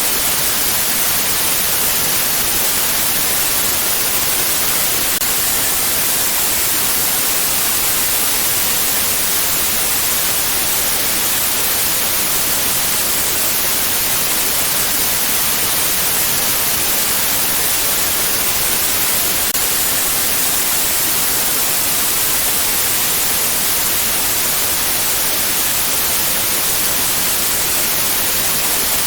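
Synthetic white noise: a steady, even hiss that is loudest in the high frequencies and does not change.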